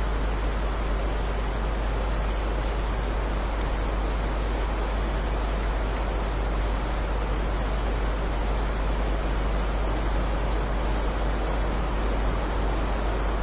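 Steady heavy rain: an even, unbroken hiss with a deep low rumble beneath it.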